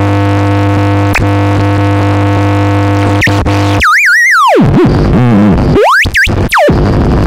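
Experimental dark-ambient electronic music: a steady buzzing synth drone with a strong low hum, which cuts off about four seconds in. A theremin-like tone then slides steeply up and down in pitch over low noisy textures.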